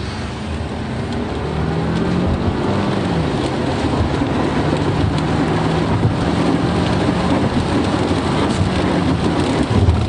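Car engine accelerating hard, heard from inside the cabin: its note climbs, dips about three seconds in, then holds steady, under a constant hiss of heavy rain and tyre spray.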